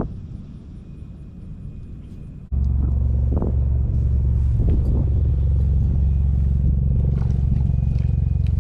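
A steady, loud, low rumble like a motor vehicle or machinery running close by, starting suddenly about two and a half seconds in after a quieter outdoor background.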